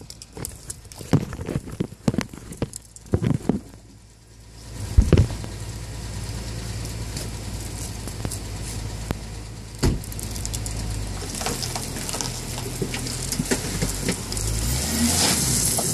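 Scattered knocks and clicks, then the wrecked Dodge Challenger's engine catches about five seconds in and runs steadily at idle. A hiss grows over the last few seconds.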